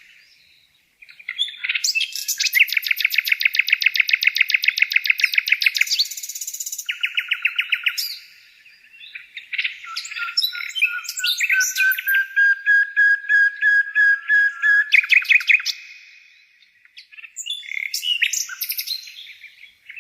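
Songbirds singing in bouts of fast, high trills of many rapid notes, with short pauses about a second in, around eight seconds in and around sixteen seconds in.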